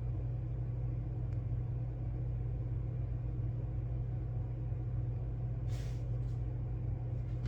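Steady low hum of background room noise, with two short soft hisses near the end.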